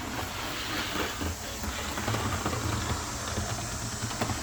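Athearn Red Box HO scale rail diesel car with its rubber band drive running fast along model track: a steady running noise of motor and wheels with a low hum, plus a couple of faint clicks.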